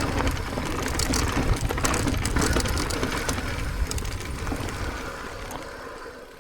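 Electric mountain bike's disc brakes dragging hard on a steep rocky descent, an angry rubbing noise over rattling and clicking from the bike on the stones. It dies away over the last couple of seconds.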